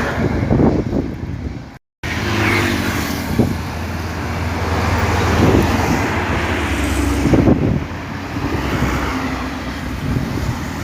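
Diesel engines of Isuzu Giga tanker trucks running steadily in a convoy, over road traffic noise. The sound cuts out briefly about two seconds in.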